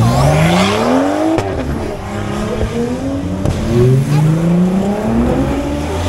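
A sports car accelerating hard from close by, its engine note climbing steeply, dropping at each gear change and climbing again several times.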